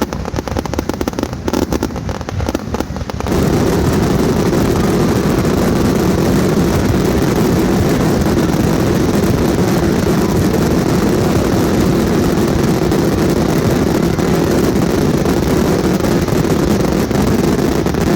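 Fireworks going off at close range: rapid crackles and bangs, then about three seconds in a sudden jump to a loud, continuous rumble of many explosions at once that holds steady.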